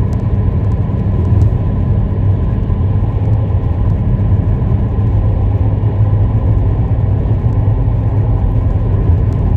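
Car driving in traffic: a steady low rumble of road and engine noise.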